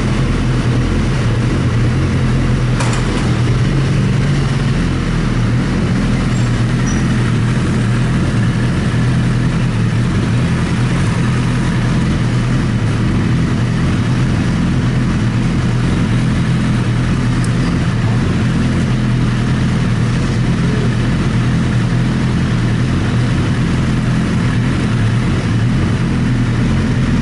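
A vehicle engine running steadily at an unchanging speed: a constant low drone under a broad noisy wash, with no rise or fall in pitch.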